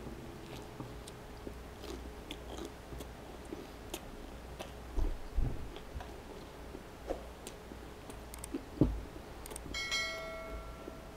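Close-miked chewing of a mouthful of toasted grilled cheese sandwich, with small wet mouth clicks and a few low thumps. Near the end a short bell-like chime from a subscribe-button animation rings over it.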